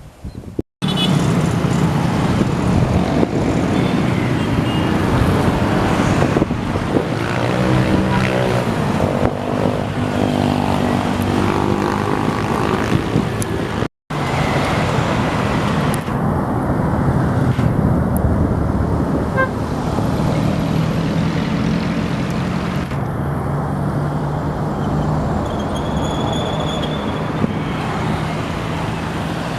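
A train passing, with loud steady running noise and a horn sounding; the sound breaks off sharply about a second in and again about halfway through.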